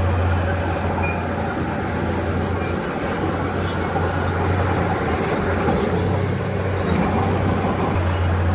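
Heavy diesel earthmoving machine running with a steady deep drone that eases off around the middle and comes back strongly near the end. Faint short high squeaks are scattered over it.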